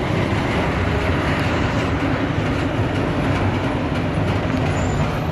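Loud, steady rumble of heavy road traffic, a truck engine running among it.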